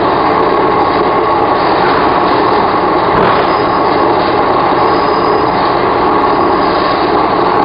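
Electric commuter train running at speed: a steady, loud rumble of wheels and traction motors heard from inside the carriage.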